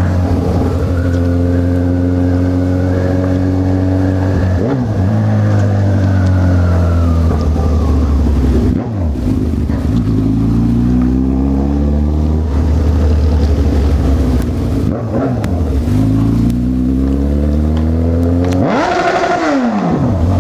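Honda CB1000R's inline-four engine pulling through the gears: its pitch climbs in stretches, dropping at each shift, with a quick sharp rise and fall in pitch near the end.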